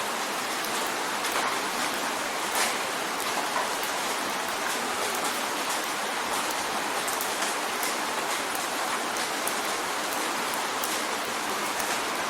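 Steady rain drumming on a window: a dense, even hiss of falling rain, with individual drops ticking against the glass and now and then a louder splash.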